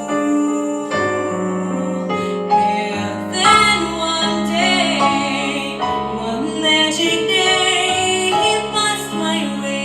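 A teenage girl singing a slow jazz ballad in English, holding notes with vibrato, over an instrumental accompaniment with piano.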